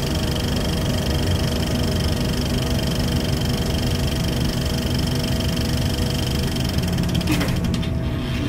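A steady mechanical drone with several held tones. About seven seconds in there is a short falling sweep with a quick run of crackling clicks.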